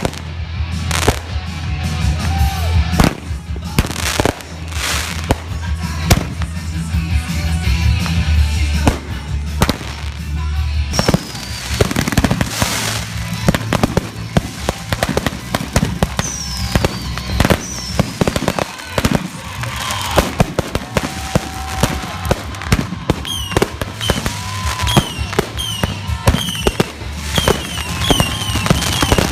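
Aerial fireworks display: rapid bangs and crackling bursts throughout. Falling whistles begin about a third of the way in, and rapid short whistles from whistling shells come near the end.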